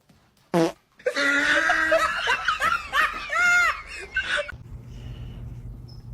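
A person laughing hard for about three and a half seconds, in pulsed rising and falling bursts. It comes after a short falling sound under a second in and gives way to a steady low hum.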